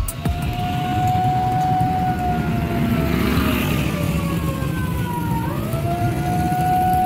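Railway level-crossing warning siren wailing slowly: its tone sinks gradually for about five seconds, then rises again. A steady low traffic rumble runs underneath.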